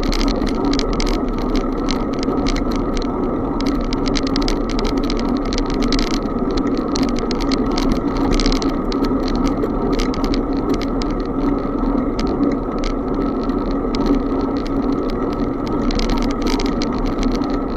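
Bicycle in motion: steady wind and road noise with a near-constant clatter of small rattling clicks.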